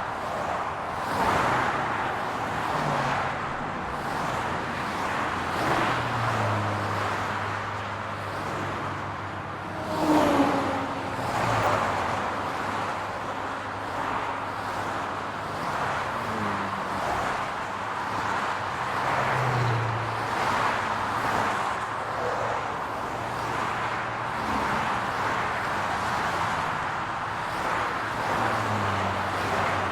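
Car traffic: engines running over a steady road-noise hum, their low tones rising and falling as vehicles speed up and slow down. About ten seconds in, a louder car pass comes with a falling tone.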